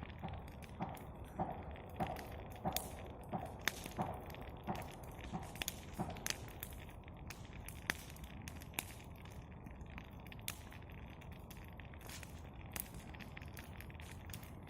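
Campfire crackling, with irregular sharp pops over a steady low hiss. Over the first six seconds a run of about ten evenly spaced knocks sounds on top of it.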